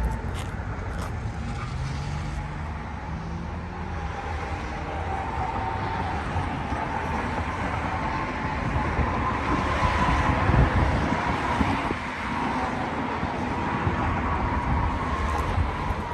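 Road noise of a vehicle driving steadily: a continuous tyre and engine rumble with a faint steady hum above it.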